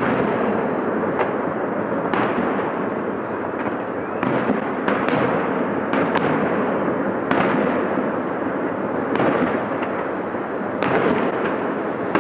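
Fireworks going off: a run of irregular sharp bangs and crackles over a steady background rush.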